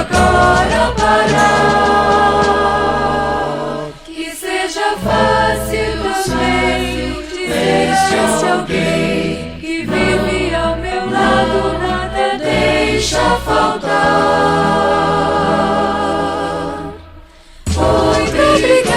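Gospel music: a vocal group singing in harmony over an instrumental backing with a steady bass line. It drops away briefly near the end, then resumes.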